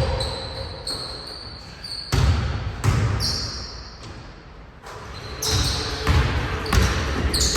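Basketball bouncing on a gym floor, a series of irregular thuds, most of them coming in a run through the second half.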